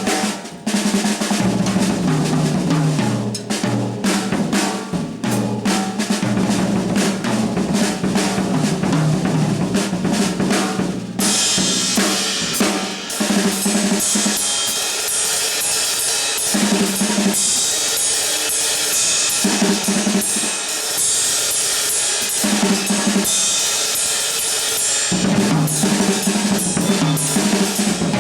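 Live jazz drum kit playing busily, with snare and bass drum hits and rolls; about eleven seconds in, the cymbals come crashing in and keep washing over the drums.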